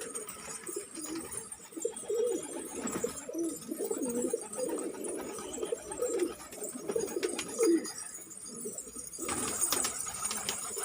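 Pigeon cooing: a run of low, wavering coos repeated one after another. About nine seconds in the coos stop and a rougher rustling noise with clicks takes over.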